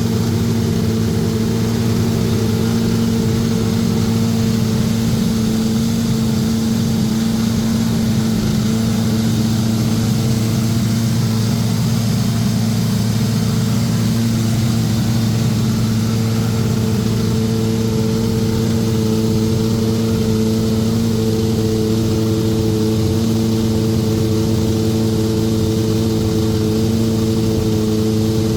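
Engine of a 2007 Williams FW29 Formula 1 car idling at a steady, even pitch as it is warmed up.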